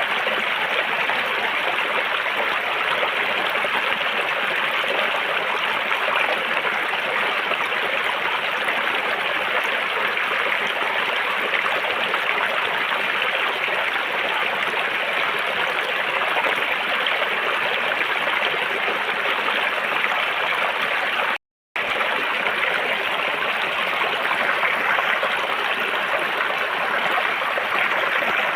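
River water flowing and rushing steadily over rocks, an even stream-like wash. The sound drops out to silence for a split second about three-quarters of the way through, then resumes unchanged.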